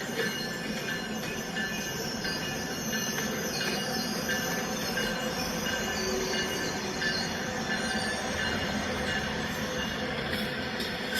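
Train cars rolling through the station with steel wheels squealing on the rails: several high squeal tones that come and go over a steady rumble.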